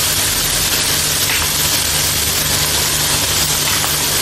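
Chicken and tomato mixture sizzling steadily in a nonstick frying pan over a gas flame, with a low steady hum underneath.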